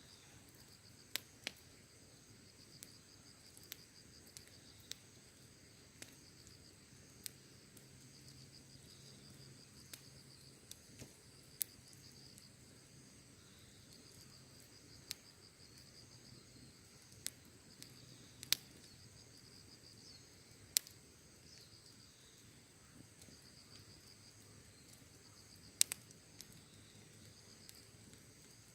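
Campfire crackling with scattered sharp pops, over a steady high-pitched chirring of insects.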